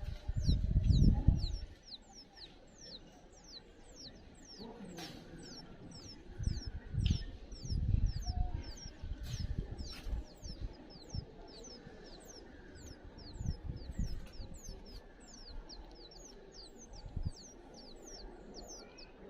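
Small birds chirping steadily: short, high calls that slide downward, about three a second, typical of nestlings begging to be fed. Low rumbling bumps come and go underneath, loudest about a second in and again around seven to eight seconds.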